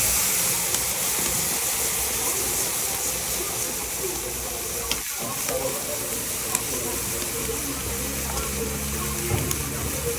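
Food frying in hot oil over a wood fire: a steady sizzle with a few faint pops.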